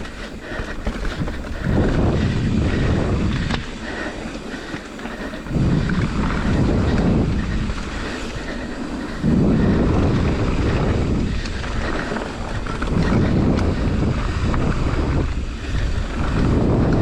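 Wind buffeting the microphone of a mountain biker's camera during a fast downhill run, with the bike's own running noise underneath. The noise swells into loud surges every few seconds as speed rises.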